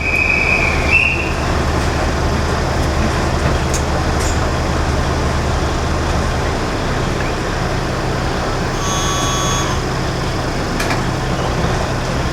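KiHa 20-type diesel railcar's DMH17-series engine running steadily with a low hum, heard from the cab, the hum shifting slightly about six seconds in. A short high beep sounds about nine seconds in.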